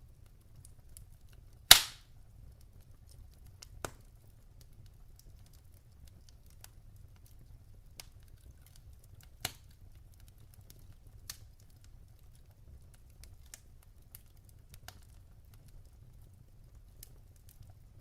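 Wood fire crackling in a fireplace: scattered small crackles over a low steady rumble, with one sharp loud pop of burning logs a couple of seconds in and smaller pops around four and nine seconds.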